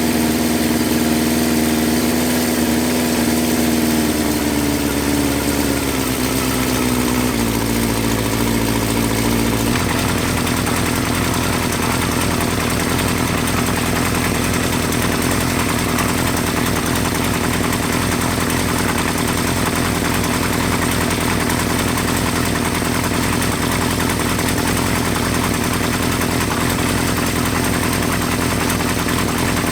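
1975 Honda CB550's air-cooled inline-four engine idling after starting. Its speed drops a few seconds in and settles, then it runs at a steady idle.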